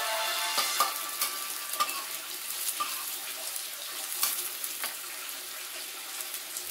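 Sliced mushrooms sizzling as they stir-fry in a hot wok, with scattered clicks and scrapes of a metal spatula against the pan.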